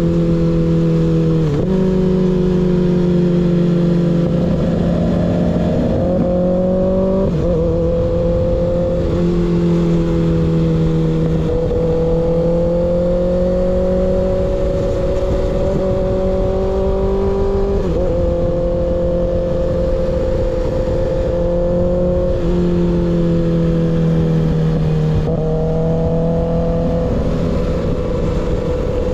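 Kawasaki ZX6R inline-four running through an unbaffled M4 GP19 slip-on exhaust, riding at fairly steady revs. The engine note holds steady for stretches and steps up or down in pitch several times as the throttle or gear changes.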